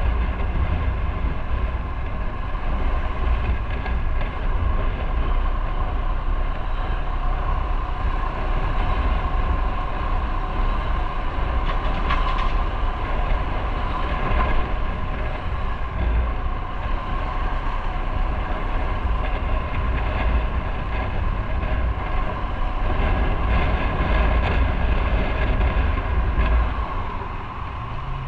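Motorcycle riding at steady speed: a steady engine note under heavy wind rumble on the microphone. The rumble and loudness ease near the end.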